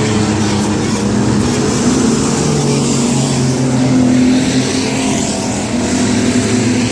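Several racing trucks' engines running hard together, a loud, steady mix of overlapping engine notes at different pitches.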